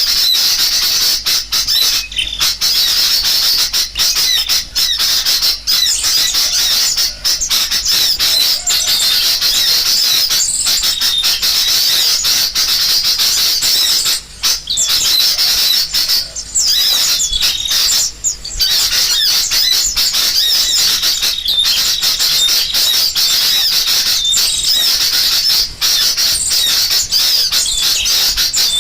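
Dense, unbroken chatter of many small birds twittering over one another, mixed with the agitated scolding calls of sooty-headed bulbuls. It is a bird-trapping lure recording meant to draw birds in. The calls sit high in pitch and drop out briefly a few times around halfway.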